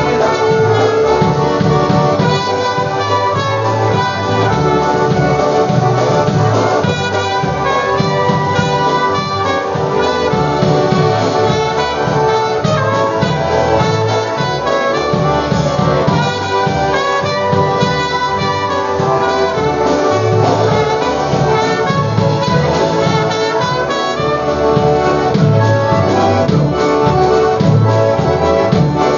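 Live polka band playing an instrumental passage with no singing, horns carrying the melody over a steady oom-pah beat.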